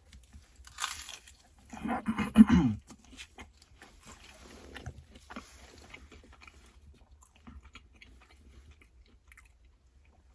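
Close-up chewing and mouth sounds of a person eating hibachi food. There is a short louder throaty vocal sound about two seconds in, then soft, sparse chewing clicks.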